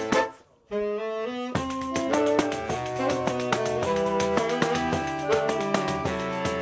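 Saxophone quartet with percussion playing Brazilian music; the ensemble breaks off for a moment under a second in, one sax holds a note, then the full group comes back in with steady percussion strikes.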